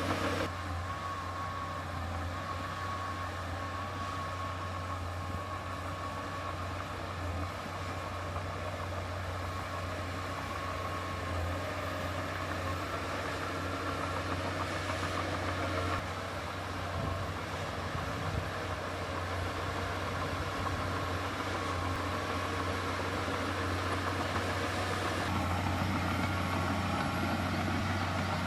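Diesel engine of heavy earthmoving machinery running steadily, a continuous low drone whose tone shifts slightly about halfway through and again near the end.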